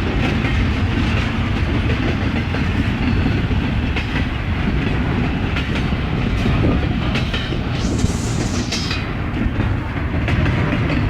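Long freight train's cars rolling past, a steady rumble with wheels clicking over rail joints, and a brief hiss about eight seconds in.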